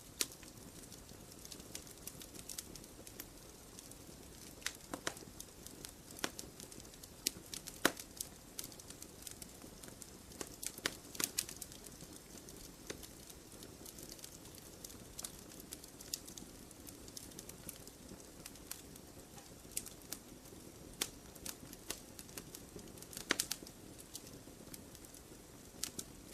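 Wood fire crackling in a fireplace: irregular sharp pops and snaps over a steady low hiss, with a cluster of louder pops around the middle and another near the end.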